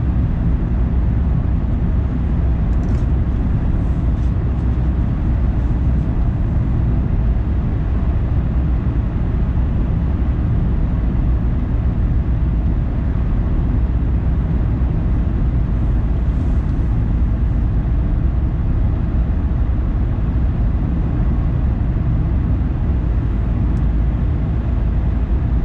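Car driving: a steady low rumble of road and engine noise, with a few faint high ticks a few seconds in and again about midway.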